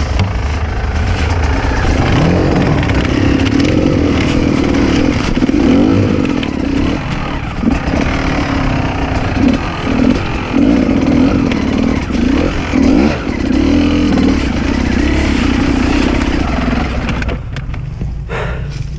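Enduro dirt bike engine running under load, its note rising and falling as the throttle is opened and closed again and again. Near the end it drops back to a lower, quieter note.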